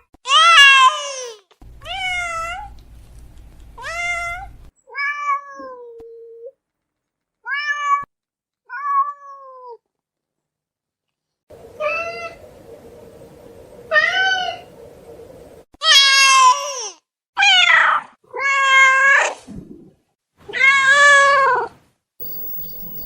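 Ocelot meowing: a series of about a dozen short, drawn-out meows, each bending up and then falling in pitch, with a pause of a few seconds midway. The calls after the pause are louder.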